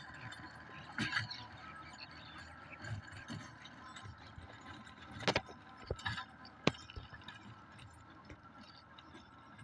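Farm tractor engine running steadily, heard faintly, with a few sharp clicks or knocks about a second in and twice more near the middle.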